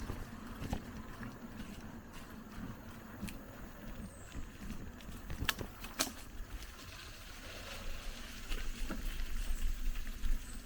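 Mountain bike moving over a rough dirt trail: scattered clicks, knocks and rattles from the bike and tyres on stones and roots, with low rumble near the end.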